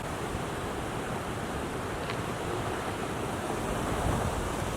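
Wind rushing and buffeting against the microphone, a steady noise with a low rumble.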